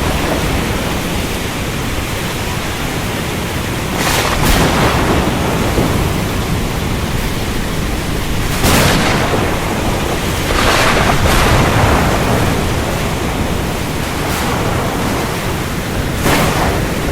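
Steady heavy rain, with short cracks of thunder breaking through several times.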